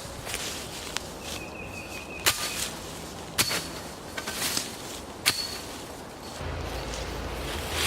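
Rustling in brush with three sharp snaps or clicks spaced about a second or two apart, and a low hum coming in near the end.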